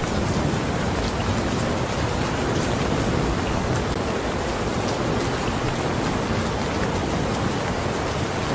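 Steady rain falling, an even hiss with faint ticks of individual drops striking a surface.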